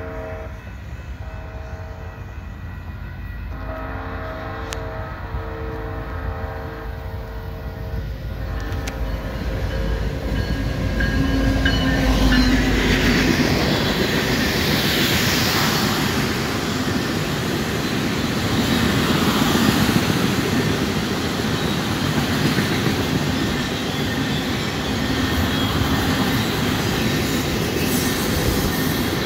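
An EMD SD70ACe diesel locomotive (NS 1065) approaches, sounding its horn chord in several blasts over the first nine seconds or so. Its engine rumble builds and peaks as it passes, about twelve seconds in. After that comes the steady rolling clatter of a long welded-rail train of flatcars going by, with a brief high wheel squeal shortly after the locomotive passes.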